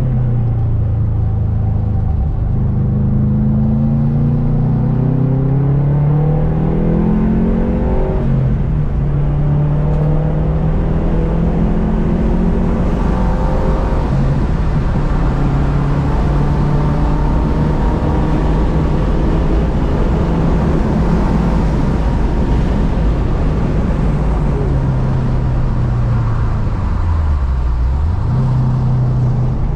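Subaru's swapped-in EJ257 turbocharged flat-four engine under hard track driving: revs climb for several seconds, fall back about eight seconds in at an upshift, run fairly steady at speed, then dip briefly and climb again near the end.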